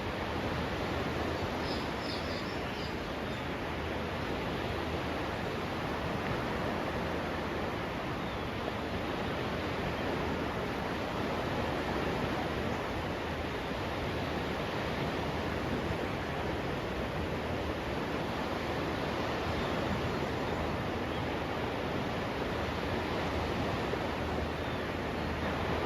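Steady rushing noise of sea surf along a beach, with a few faint high chirps about two seconds in.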